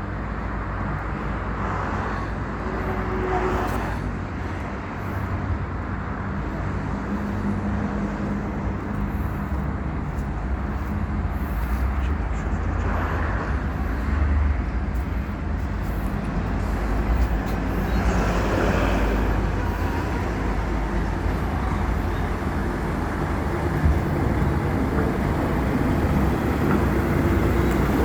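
Heavy truck engine running steadily with a low, continuous rumble.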